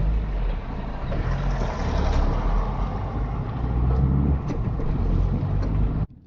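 Car interior driving noise: low engine and tyre rumble, steady and fairly loud, that cuts off abruptly near the end.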